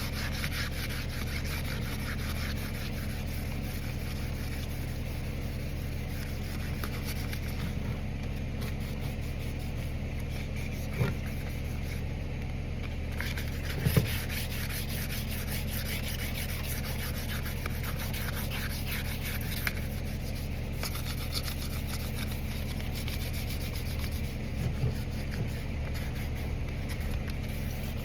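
Hand wet sanding: 1200-grit wet/dry paper on a foam sponge pad rubbed back and forth over a painted tractor light bar, over a steady low hum. A couple of light knocks around the middle.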